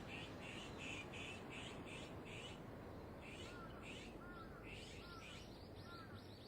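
Faint bird chirping: quick series of short high chirps, about three a second, with a brief pause about three seconds in. From about halfway, a second, lower arched call repeats about five times, over a steady background hiss.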